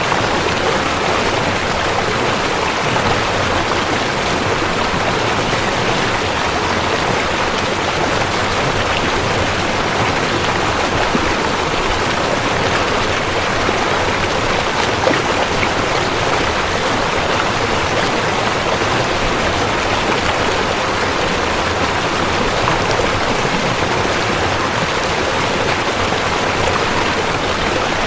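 Rushing river water, a steady loud rush.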